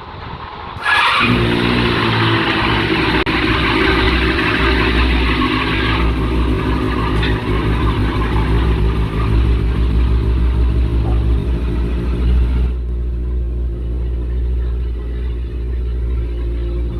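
Benelli TNT 600i's inline-four engine through its stock exhaust. It runs steadily at idle, then is revved and held at higher revs from about a second in, and drops back to idle near the end.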